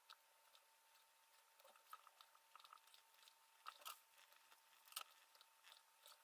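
Near silence with scattered faint clicks and scratches, a few sharper ticks partway through: thin twisted enamelled copper wire being wound by hand onto a tooth of a small brushless motor's stator.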